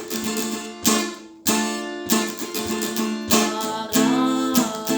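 Acoustic guitar strummed in a steady rhythm, a sharp chord stroke roughly every two-thirds of a second with the chords ringing between strokes.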